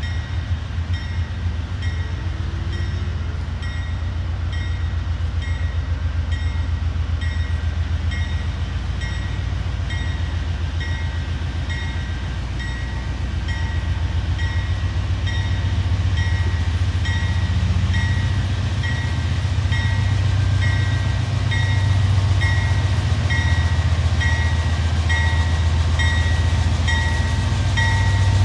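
Freight train passing with a steady low rumble that swells in the second half. Over it, a high electronic beep repeats about once a second, typical of a level-crossing warning signal.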